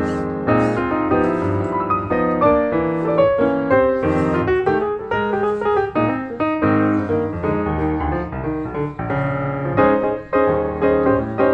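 Background music played on piano, a steady run of quick notes throughout.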